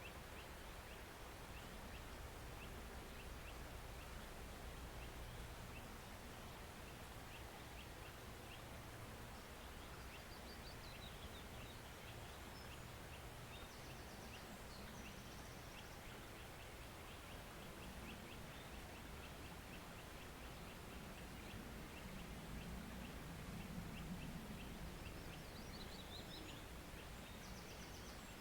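Faint woodland stream trickling with a steady wash of water. Short high bird calls come through a few times.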